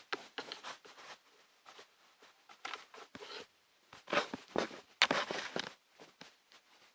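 Irregular scuffing and rustling noises, short and uneven, bunched into a couple of busier stretches in the middle; no engine is running.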